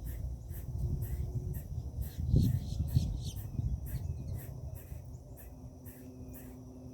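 Insects chirping in a steady pulsing rhythm, about three pulses a second, over a low rumbling noise with a couple of louder bumps near the middle; the rumble fades in the last couple of seconds.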